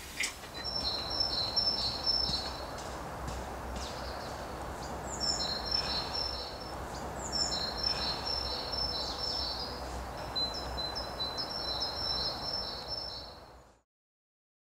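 A songbird singing four separate phrases of quick repeated high notes, each opening with a short falling slur, over a steady outdoor rush; all of it fades out near the end.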